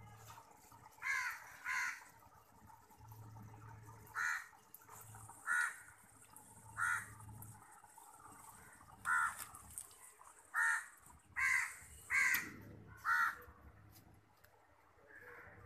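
A bird calling repeatedly: about ten short calls at uneven intervals, over a faint trickle of water.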